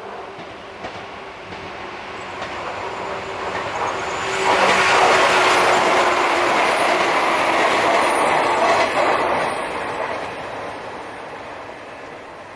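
Electric-hauled freight train of container wagons passing, its wheels rolling on the rails. The sound swells sharply about four and a half seconds in, holds for several seconds, then fades away.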